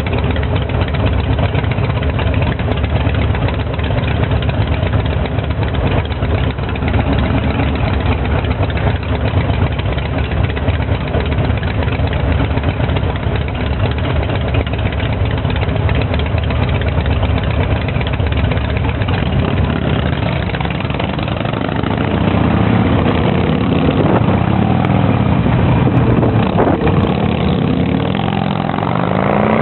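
Motorcycle engine running steadily while riding. From about two-thirds of the way in it gets louder, and near the end its pitch rises as it accelerates.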